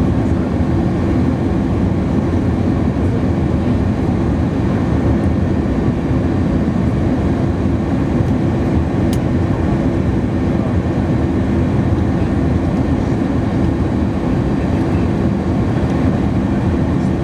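Steady cabin noise aboard an Airbus A310-300 on approach: an even, low rumble of the jet engines and the airflow past the fuselage.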